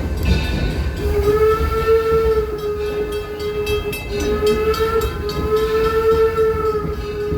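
Steam locomotive whistle sounding two long blasts, the first starting about a second in and the second right after a brief break about four seconds in, over the low rumble of the train running.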